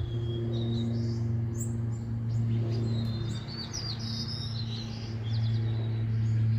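Small songbirds chirping and trilling in short, overlapping calls over a steady low hum.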